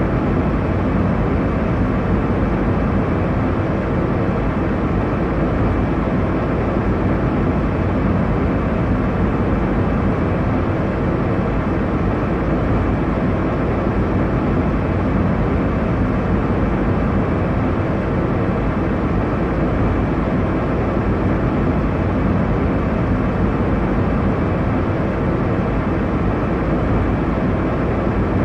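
Airliner cabin noise in flight: a steady, even rush of engine and airflow noise, deepest in the low range, with no change or separate events.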